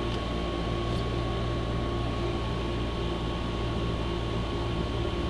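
Steady low mechanical hum with a faint thin steady tone above it, unchanging throughout.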